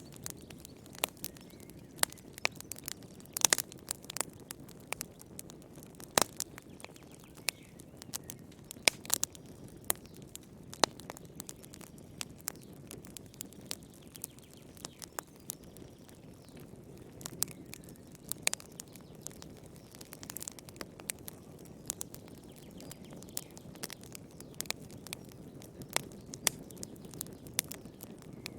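Wood fire crackling in a fireplace: irregular sharp pops and snaps, sometimes several close together, over a steady low rush of the burning.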